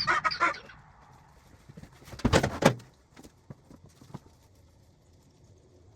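A loud, noisy sound dies away in the first second, then a quick cluster of loud knocks and clatter about two seconds in, followed by a few scattered light knocks.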